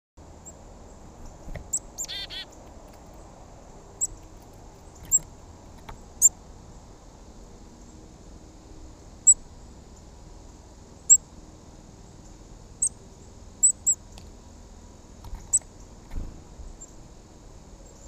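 Small wild birds calling: short, high chirps every second or so at irregular intervals, with a quick run of repeated descending notes about two seconds in.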